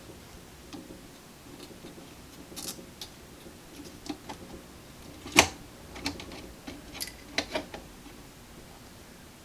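Scattered small clicks and taps of hand tools working wires loose at a terminal on a radio chassis, with one sharp, louder click about five and a half seconds in.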